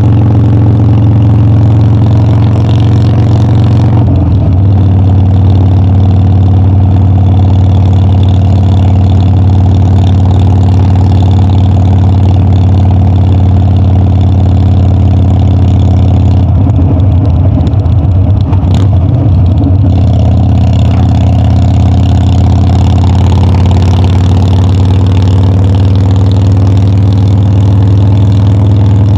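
Harley-Davidson Dyna's V-twin engine and exhaust running under way at a steady cruise, changing note at about four seconds and going rough and unsteady for a few seconds past the middle before pulling again with the pitch slowly rising near the end.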